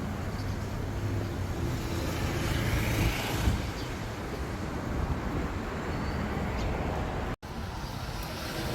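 Wind buffeting the microphone in a rough, rumbling roar, with a faint low steady hum of traffic underneath. The sound cuts out for an instant about seven seconds in.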